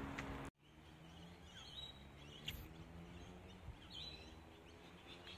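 Faint outdoor ambience with a few brief, high bird chirps scattered through it. A louder rustle cuts off abruptly about half a second in.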